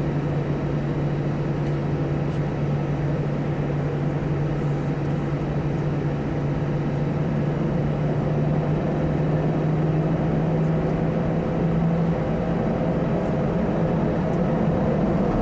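Airbus A319 jet engines heard from inside the passenger cabin: a steady low hum over constant rushing cabin noise, growing slightly louder toward the end.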